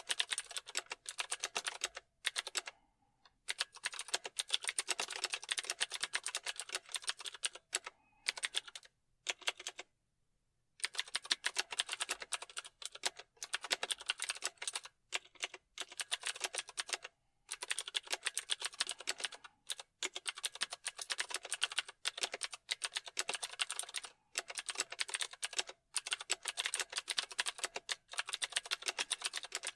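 Computer keyboard typing: fast runs of key clicks lasting several seconds, broken by brief pauses.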